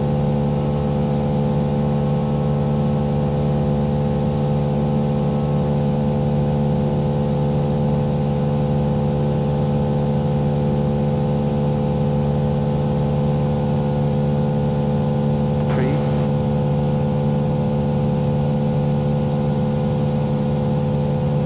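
Cessna 172's piston engine and propeller droning steadily at cruise power, heard inside the cockpit, an even hum of several steady tones.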